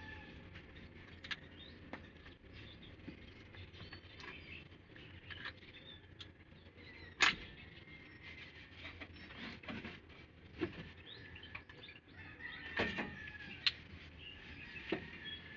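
Scattered light clicks and taps, sharpest about seven seconds in and clustered near the end, over birds chirping in the background.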